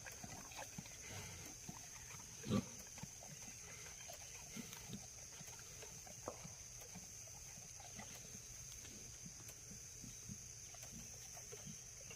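Pigs grunting in short, scattered grunts, with one louder grunt about two and a half seconds in.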